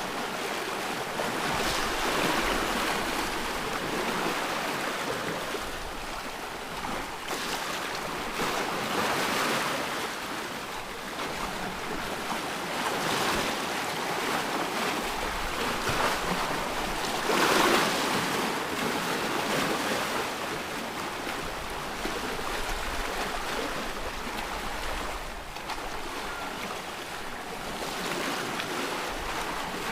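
Ocean waves washing onto a shore: a continuous surf hiss that swells and ebbs every few seconds, with one bigger wave breaking about two thirds of the way through.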